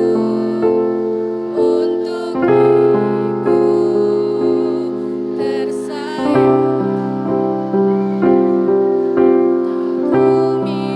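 Electronic keyboard playing slow, sustained chords, a new chord about every second, as the accompaniment to a choir piece.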